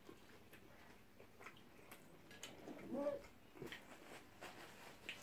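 Faint eating sounds: soft chewing and mouth clicks from people eating shawarma wraps, with a short hummed "mm" about three seconds in.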